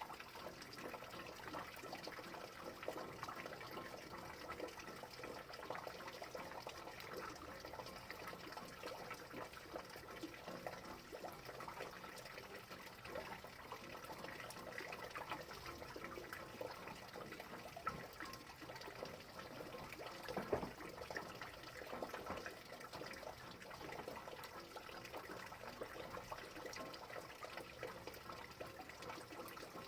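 Rain falling steadily, a dense patter of many small drops with a couple of louder drops past the middle.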